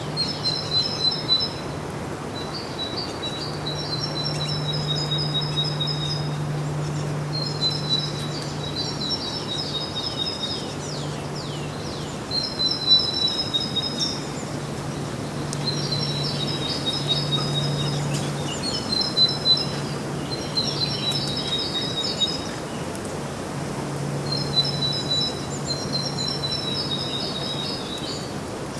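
Songbird singing repeated chirping phrases of a couple of seconds each, with short pauses between them, over a steady background hiss and a low hum.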